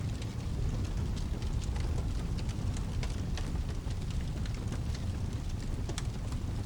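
Steady rain over a low, continuous rumble, with scattered sharp crackles and pops from a fireplace throughout.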